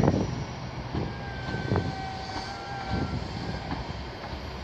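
Passenger train coaches rolling past over points and rail joints: the wheels knock several times, about a second apart, over a steady rumble, with a faint thin squeal from the wheels in the middle.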